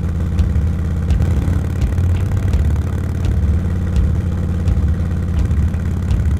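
Motorcycle engine running steadily at low road speed, a constant low drone.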